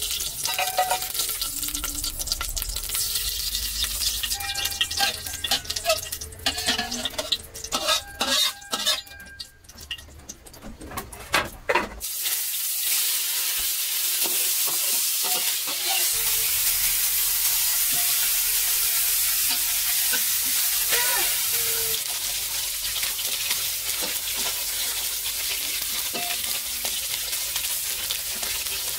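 Utensils clinking and knocking against a pan for the first twelve seconds or so. Then a steady sizzle starts suddenly: food frying in a hot pan.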